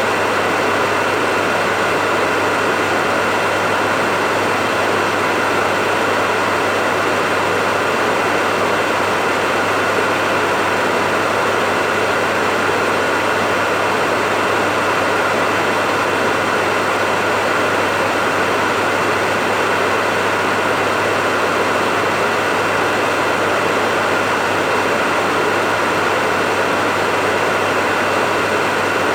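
Hair dryer running steadily: a constant rushing airflow with a steady motor whine, unchanging throughout, played as white noise to soothe a baby to sleep.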